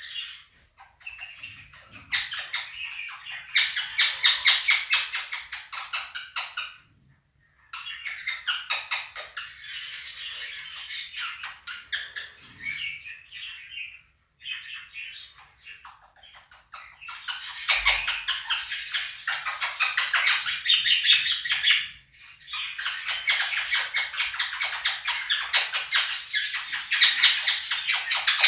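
Quaker parrots (monk parakeets) squawking loudly over the chirping and warbling of a flock of budgerigars. The calling comes in dense bouts of several seconds, broken by brief pauses.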